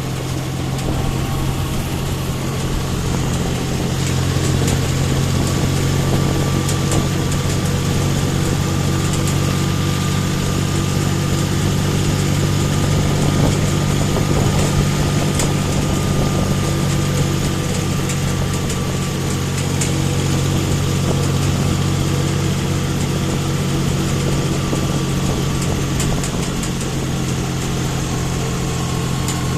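John Deere tractor's diesel engine running steadily, pulling a fully loaded trolley; the level rises a little for a stretch in the middle.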